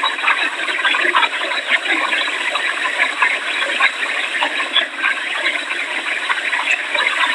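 Hurricane wind and heavy rain making a steady, dense rushing noise.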